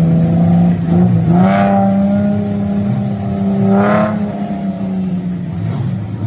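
A 4x4 SUV's engine running hard at high revs while drifting, revving up twice, about a second and a half in and again around four seconds in.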